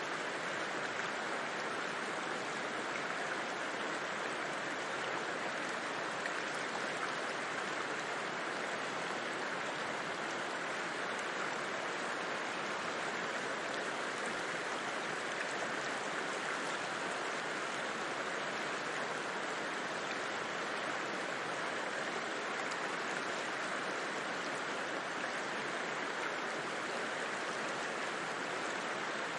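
River flowing: a steady, unbroken rush of water.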